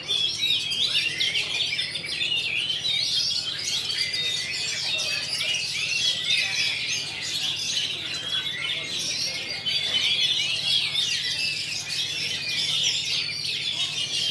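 Many caged oriental magpie-robins (kacer) singing at once in a songbird contest: a dense, unbroken tangle of overlapping whistles, chirps and warbles.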